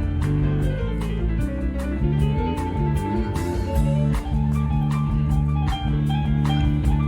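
Live band playing an instrumental passage: guitar over bass with a steady drum beat.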